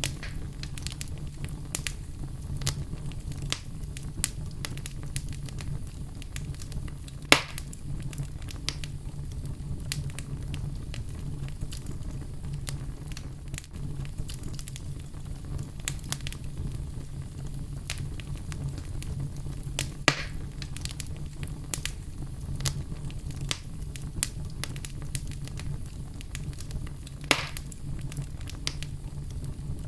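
Fire burning in a fireplace: a steady low rumble with frequent small crackles. Three louder pops stand out, about seven seconds in, about twenty seconds in, and near the end.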